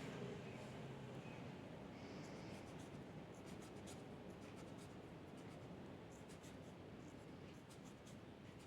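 Faint scratching of a drawing tool on paper in short, irregular strokes.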